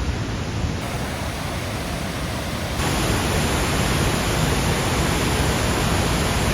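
Horsetail Falls rushing close by: a steady, loud wash of falling water. It steps up suddenly in level about three seconds in.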